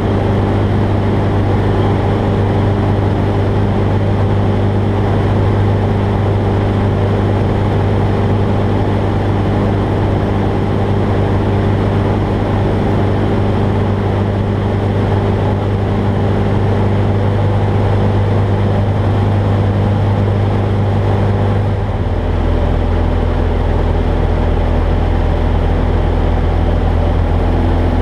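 Jabiru J-170 light aircraft's four-cylinder Jabiru 2200 engine and propeller running steadily, with a change in engine note about twenty-two seconds in.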